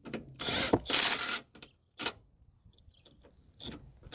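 A wrench works out a 14 mm strut-tower bolt: a few short bursts of metallic clicking and rattling, the loudest about a second in.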